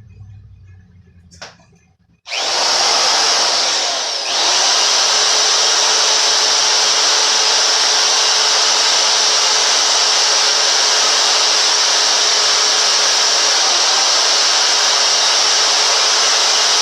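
Electric drill starting up about two seconds in and then running steadily as it bores through a metal plate, with a dull twist bit doing the cutting.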